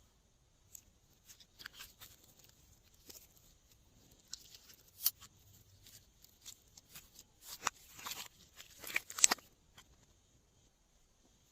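Glossy slime being worked by hand: scattered sticky clicks and small pops, with a single sharper click about five seconds in and a busier run of crackling about eight to nine and a half seconds in.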